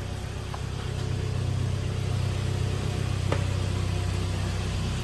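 Kia Sportage's 2.0-litre G4KD four-cylinder petrol engine idling evenly and quietly with no knock, freshly rebuilt with a sleeved block. Two faint clicks, about half a second in and near the middle.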